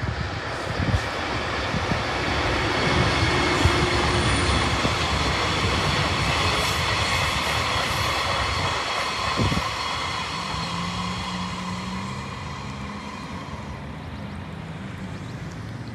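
Freight train of twelve Taki tank wagons behind an EH500 electric locomotive rolling past, a steady rush of wheel and rail noise. It is loudest a few seconds in and fades away as the last wagons pass.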